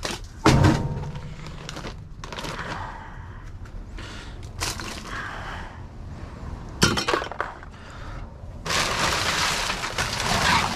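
Trash being dug through in a garbage can holding used oil filters and scrap metal: sharp clanks and clinks of hard items knocking together, the loudest about half a second in, then a rough rustling and scraping of rummaged trash in the last two seconds.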